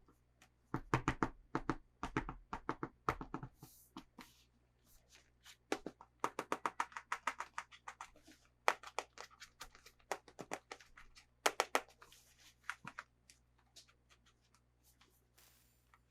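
Hands handling and opening toy packaging: short, sharp clicks, taps and crinkles in irregular clusters with brief pauses between them.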